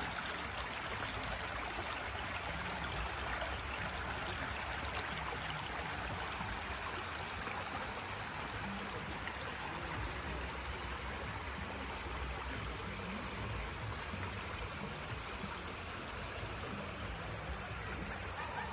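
Stream water flowing, a steady rush with no break.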